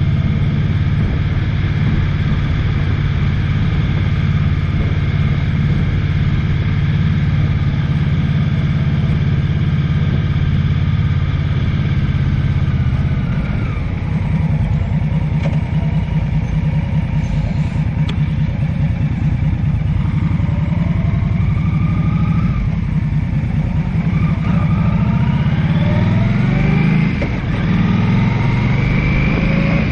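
A vehicle engine running steadily, then climbing in pitch several times in the last third as it accelerates.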